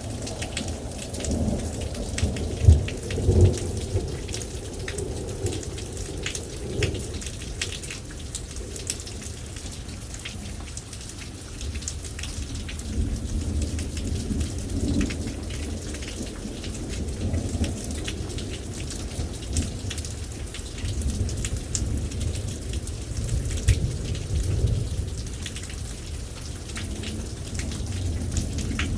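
Rain falling steadily with many small drop impacts, under thunder rumbling in swells; the loudest rumble comes about three seconds in, with smaller ones later.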